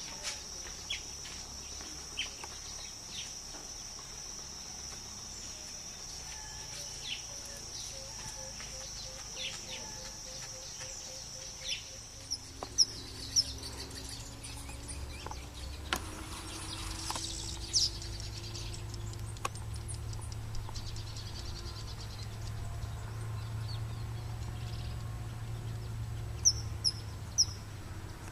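Birds chirping with short, high calls, a few of them sharp and loud near the middle and again near the end. A steady high insect drone, like crickets, runs underneath and stops about twelve seconds in, after which a low hum takes over.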